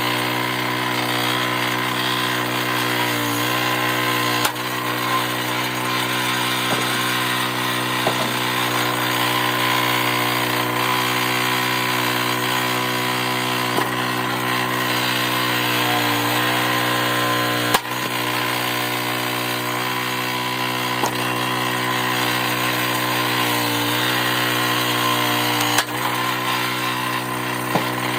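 Log splitter's engine running steadily, its pitch dipping briefly three times as it takes load, with a few sharp knocks.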